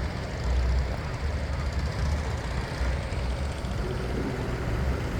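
Go-kart running on the track: a steady rumbling engine-and-road noise with an uneven low rumble that comes and goes.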